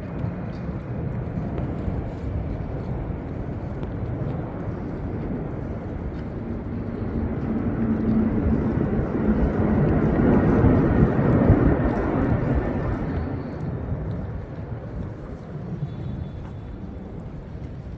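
A vehicle passing, its noise building to a peak about eleven seconds in and then fading away.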